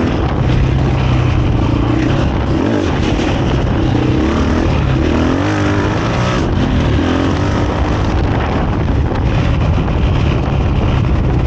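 KTM 500 EXC-F single-cylinder four-stroke dirt bike engine running through a Graves aftermarket exhaust with its insert fitted, heard while riding. The engine note rises and falls as the throttle opens and closes.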